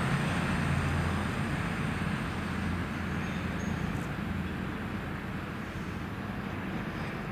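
Diesel train moving away, its low engine drone and rumble fading steadily.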